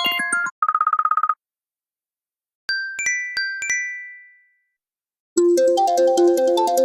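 A run of iPhone ringtones and alert tones. A melodic ringtone ends, then a short buzzing trill plays. A few bell-like chime notes ring out and die away, and about five seconds in a new busy, fast melodic ringtone starts.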